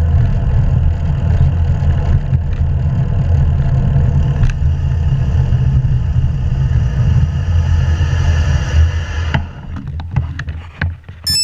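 Wind buffeting an action camera's microphone while cycling: a loud, steady low rumble that drops away about nine seconds in. A few clicks follow, then short high electronic beeps at the very end.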